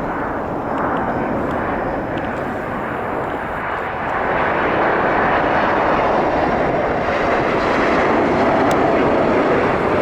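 Jet airliner engines running as a plane passes by, a steady loud rushing noise that grows a little louder about four seconds in, with a faint whine showing near the end.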